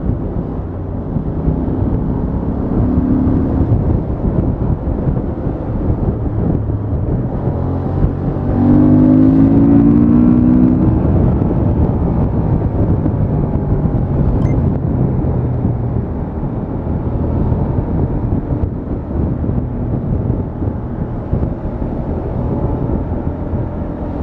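Honda XL750 Transalp's 755 cc parallel-twin engine running on the move through its stock exhaust. About eight seconds in it gets louder for a few seconds, its note rising as the throttle opens, then settles back to a steady run.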